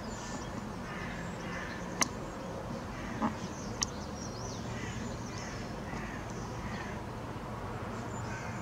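Outdoor background with scattered faint bird calls, a sharp click about two seconds in and two smaller knocks a second or two later.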